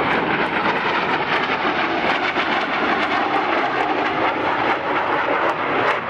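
Lockheed F-117 Nighthawk making a flyby pass, the steady jet noise of its two General Electric F404 turbofan engines.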